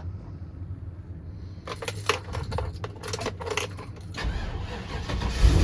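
Keys jangling and clicking in the ignition of a 2003 GMC box truck, then its engine turning over and catching with a sudden loud start near the end, settling into a low steady idle.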